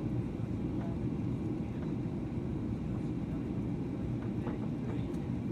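Steady low roar of a Boeing 737-800's cabin in flight: the drone of its CFM56 engines mixed with airflow noise over the fuselage.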